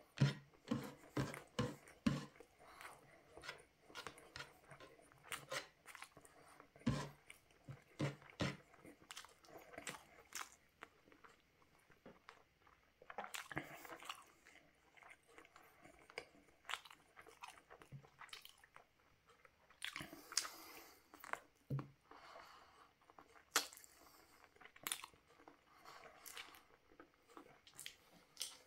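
Close-up chewing and mouth sounds of a man eating grilled chicken barbecue with rice: an irregular run of short, wet clicks as he chews, faster in the first couple of seconds.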